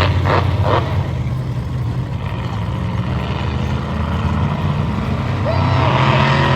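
Monster truck engine running with a steady low drone, revving harder and rising in pitch near the end.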